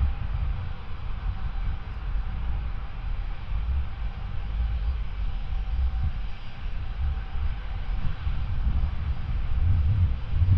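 Jet airliner engines running: a steady, rushing rumble with a faint high whine that fades out partway through.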